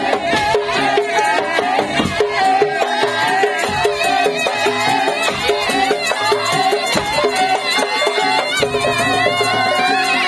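Madurese tong-tong (daul) ensemble playing a lively folk tune: a steady stream of struck percussion with a wavering melody line on top.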